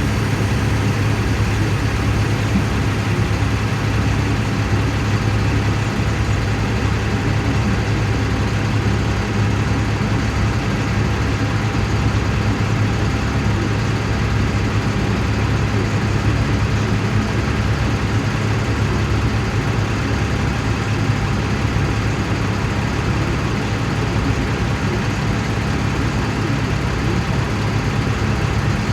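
Ottawa shunt truck's engine idling steadily, a low even hum that does not change.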